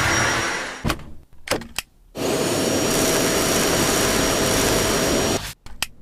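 Cordless stick vacuum cleaner running with a steady rushing whine. It cuts out abruptly about a second in, with a few clicks, and comes back a second later. It drops out briefly again near the end.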